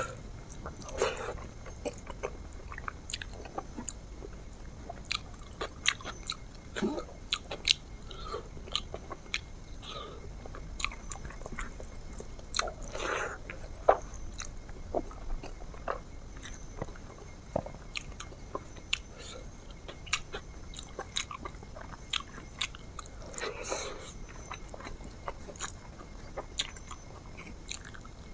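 A person chewing and eating close to the microphone: many small wet clicks and smacks of the mouth, with a few louder, longer mouth noises about a second in, near the middle and near the end.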